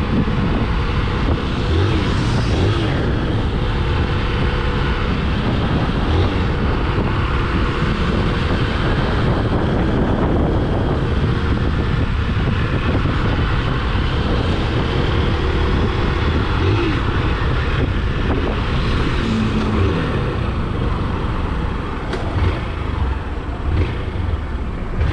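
Steady noise of a vehicle on the move: road and wind rush with a low engine drone.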